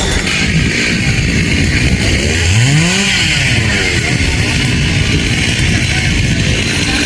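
Chainsaw running, its engine revved up once and let back down about halfway through.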